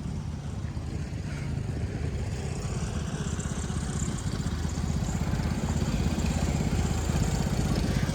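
A small engine running steadily with a rapid, even beat, growing gradually louder.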